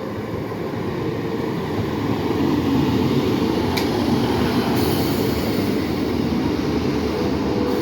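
Two coupled Class 150 Sprinter diesel multiple units running in, their diesel engines and wheels on the rails growing steadily louder as they approach. A high hiss joins over the second half.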